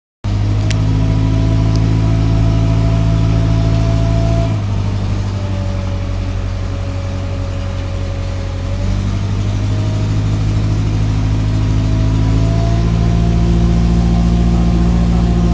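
An engine running steadily and loudly, its speed dropping about four seconds in, then picking up again around nine seconds and once more near twelve seconds.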